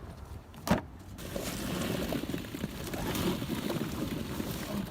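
A sharp click under a second in, then a dense, clattering rush of many small balls tumbling out of a box into a car, running on and growing a little louder.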